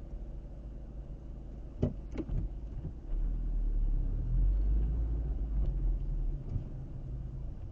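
A car driving along a road: steady low rumble of tyres and engine, with a few sharp knocks about two seconds in and a louder, deeper rumble for a few seconds from about the middle.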